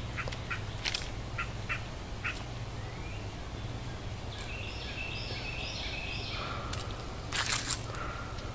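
Songbirds calling: a quick series of short chips in the first two seconds, then a longer song of stepped high notes in the middle, over a low steady hum.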